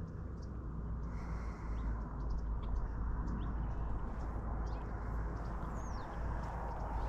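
Small birds chirping and calling in short, scattered notes, one a quick falling whistle near the end, over a steady low rumble.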